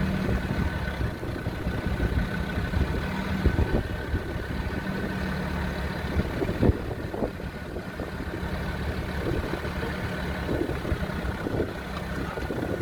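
Off-road vehicle's engine running steadily at low revs, with a few short knocks.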